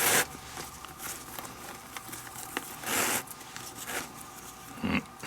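Leather lace being pulled through the lacing holes of a baseball glove: several short rasping swishes, the strongest right at the start and another about three seconds in.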